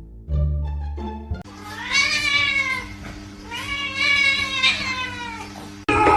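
A cat gives two long, drawn-out meows, each rising and then falling in pitch, over background music. Near the end a sudden cut brings in a louder, busier sound.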